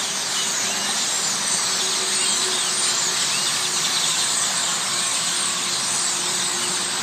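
A huge flock of birds chirping together in trees: a dense, shrill, continuous chorus of many overlapping calls, with a faint steady low hum underneath.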